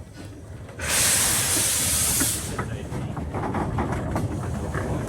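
Narrow-gauge steam locomotive releasing a burst of steam: a loud hiss begins about a second in and stops after under two seconds. After it the train runs on with rumbling and scattered clicks from the wheels.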